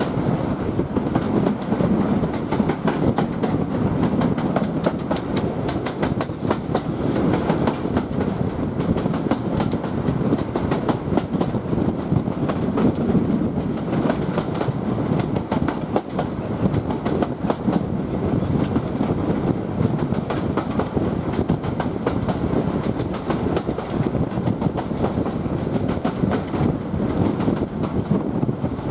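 Heritage railway train in motion, heard from on board a carriage: a steady rumble of wheels on the track, with frequent clicks as the wheels pass over rail joints.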